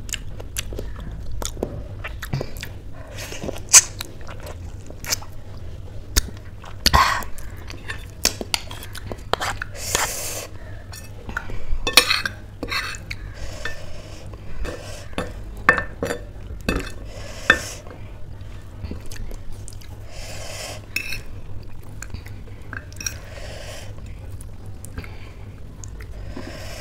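Close-up chewing of instant noodles, with a metal fork and spoon clinking and scraping on a ceramic plate in many sharp, scattered clicks.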